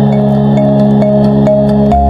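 Calm ambient music: a sustained low drone chord with a soft bell-like note repeating about twice a second, over faint irregular campfire crackles.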